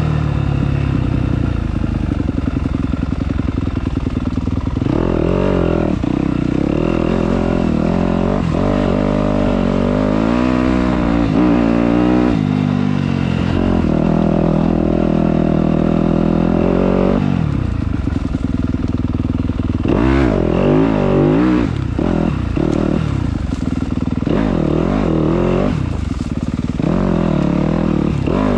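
Dirt bike engine, likely the Yamaha YZ250F's four-stroke single, revving up and down as it is ridden through a trail course. The pitch keeps climbing and dropping with the throttle and gear changes.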